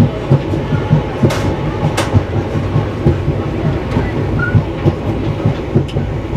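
Express passenger train running, its wheels clattering along the track over a steady low rumble, with two sharp clanks about a second and a half and two seconds in.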